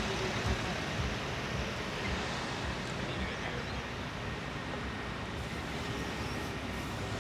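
Steady rushing wind noise on the microphone, with a few low buffeting thumps near the start; no engine running.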